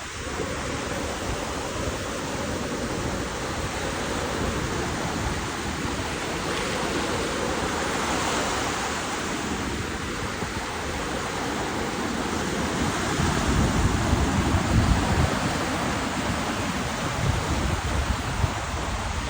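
Steady rush of ocean surf with wind on the microphone, the low wind rumble heavier in the second half.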